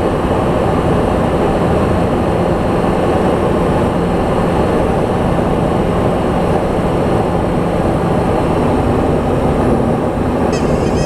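Light aircraft's piston engine and propeller running steadily at cruise in a loud, even drone. Faint high-pitched tones come in near the end.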